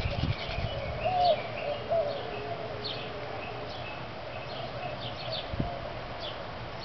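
Wild birds calling: repeated brief high falling chirps, with short low cooing notes now and then.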